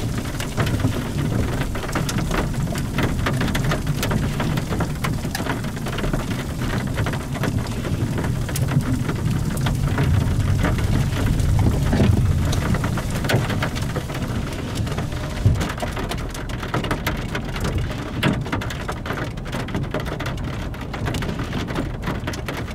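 Steady rain with many single drops ticking sharply, over a continuous low rumble that swells about halfway through.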